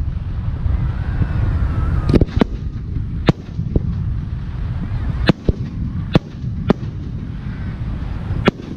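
Aerial firework shells bursting: about ten sharp bangs at irregular intervals, several close together around the middle, over a steady low rumble.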